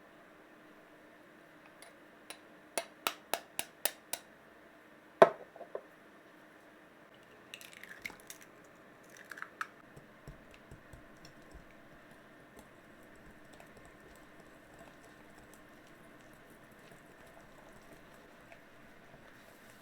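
Hand mixing of pancake batter in a bowl: a quick run of about six hard taps, a sharper knock about five seconds in, then soft wet stirring and scraping with scattered light ticks of the utensil against the bowl. A faint steady hum lies underneath.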